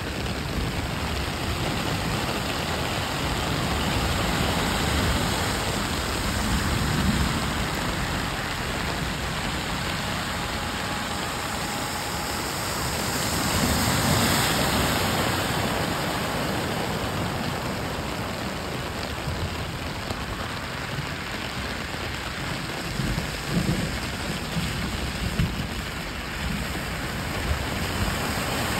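Steady rain over a flooded street, with cars driving through the standing water; a louder wash of splashing builds about halfway through as a car plows past, spraying water.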